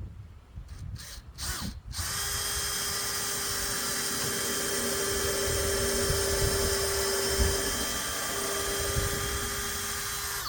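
Electric drill: a few short bursts of the trigger, then a steady whine for about eight seconds that cuts off suddenly.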